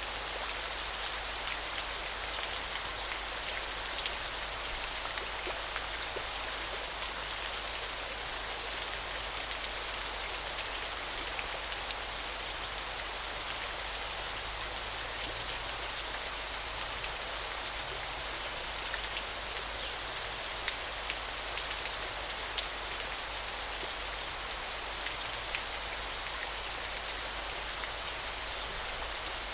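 Steady hiss of falling or running water. Over it, a thin, very high trill repeats in phrases of one to two seconds with short gaps, and stops about two-thirds of the way through.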